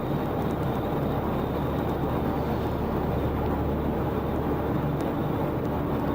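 Steady vehicle noise: a low, even rumble of engine and road noise.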